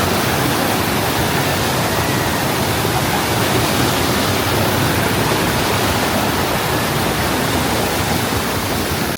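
Mountain stream water pouring in strong jets at a stone bridge: a steady, loud rushing of falling water.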